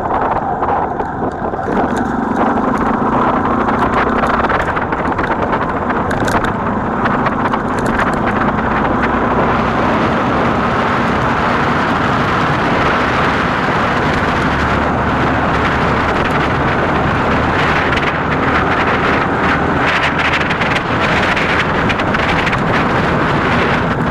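Motorcycle engine running steadily while riding, its pitch shifting a few times with the throttle, under heavy wind noise on the microphone.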